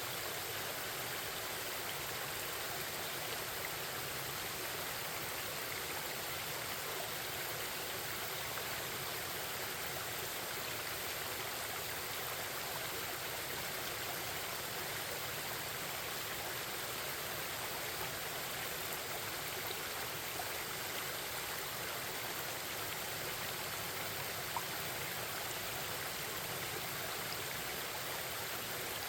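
Forest stream babbling in a steady, unbroken rush of flowing water.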